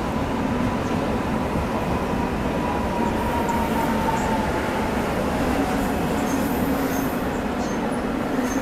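Korail 1000-series electric train running into a station and slowing, a whine slowly falling in pitch over the rumble of its wheels on the track.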